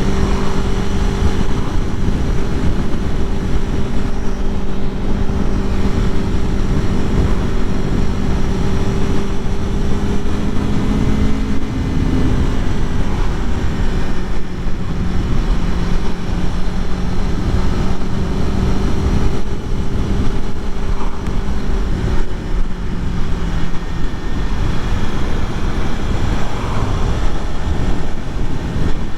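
2021 Aprilia Tuono V4 Factory's V4 engine running at fairly steady revs while riding, with a brief rise in pitch about a third of the way through. Wind rushes over the microphone.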